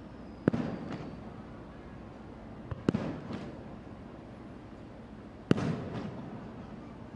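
Aerial firework shells bursting: three loud booms about two and a half seconds apart, each followed by a short crackle and a trailing rumble.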